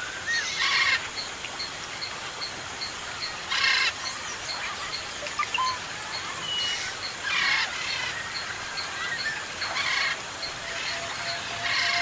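Forest birds calling: a harsh, buzzy call repeated about every three seconds over a steady run of short, high pips and a few thin whistled notes.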